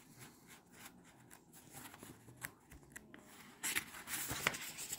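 Faint paper rustles and small clicks, then a louder rustling of paper near the end: a page of a book being turned.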